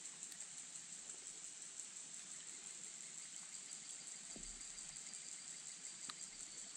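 Light rain falling, a faint steady hiss, with a soft knock about four seconds in and a short click about six seconds in.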